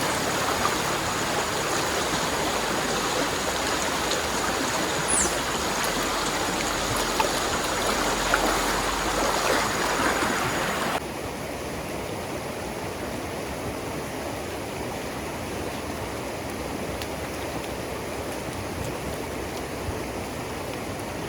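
Steady rush of water from rain and the river, which drops abruptly to a quieter, duller rush about halfway through.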